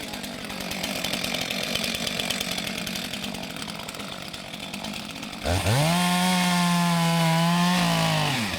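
A two-stroke chainsaw running, then revved up sharply about five and a half seconds in and held at full throttle for about two seconds before easing off near the end.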